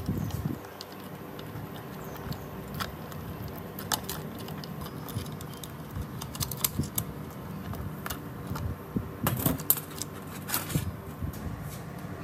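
Rusty saw chain being worked off a chainsaw guide bar by hand, its stiff links clicking and rattling against the bar and the steel bench in irregular small clicks, with a few louder clusters of clatter.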